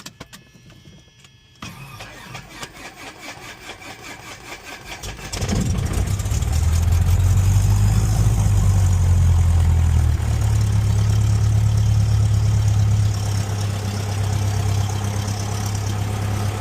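Cessna's Lycoming IO-360-L2A four-cylinder fuel-injected engine being started: the starter turns the propeller over in an even rhythm for about three and a half seconds, then the engine catches about five seconds in and runs loudly. It eases back twice, settling to a steadier, lower idle near the end.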